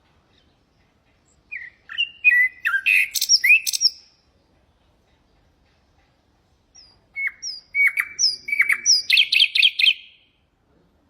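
Nightingale singing two song phrases of varied whistled notes separated by a pause; the second phrase ends in a rapid trill of repeated notes.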